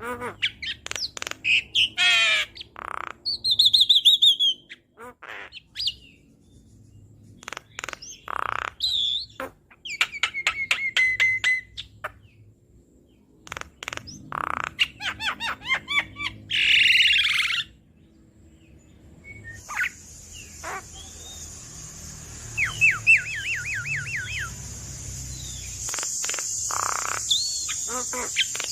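Javan myna singing a busy, varied song of curving whistles, clicks, harsh squawks and rapid chattering runs of notes. From about two-thirds of the way through, a steady high hiss runs beneath the song.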